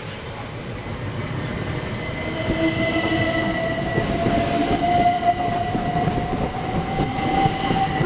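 Class 375 Electrostar electric multiple unit running through the station, its rumble growing steadily louder, with a clear electric whine that rises slightly in pitch.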